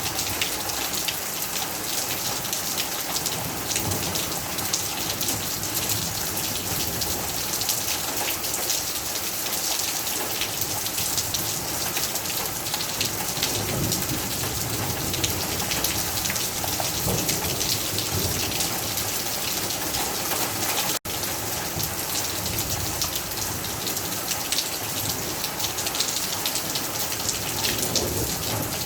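Steady rain: a dense, even hiss with many individual drop hits. The sound cuts out for a split second about two-thirds of the way through.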